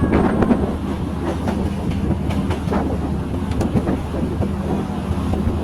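Train running on the rails, with a steady low drone and irregular clicks and knocks from the wheels and carriage.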